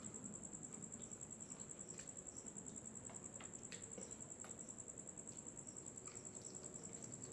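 A cricket trilling steadily, a high, rapidly pulsing note, with faint scattered clicks and smacks of someone eating.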